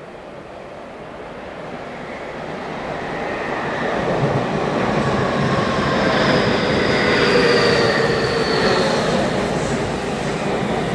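Yokohama Minatomirai Railway Series Y500 electric train approaching and running past close by, growing louder for the first half: wheels rumbling on the rails, with a high whine that slides down in pitch midway.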